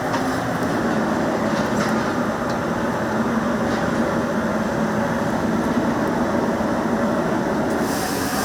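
Steady rushing noise of a powerful gas burner flame running at high heat under a cooking pot lid.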